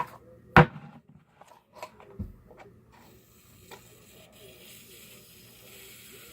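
A few sharp clicks and knocks from handling a can of shaving cream, then, about three seconds in, a steady hiss as shaving cream sprays from the aerosol can.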